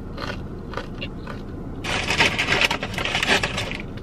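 A person chewing a crunchy homemade tortilla chip: a few faint crunches, then a dense run of loud crackling crunches starting about two seconds in and lasting nearly two seconds.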